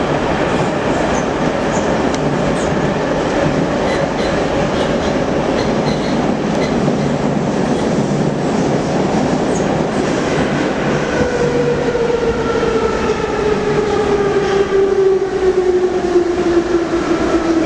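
Metro train running between stations: steady wheel-on-rail rumble with some clickety-clack. From about two-thirds of the way in, a whine falls steadily in pitch as the train slows for the next station.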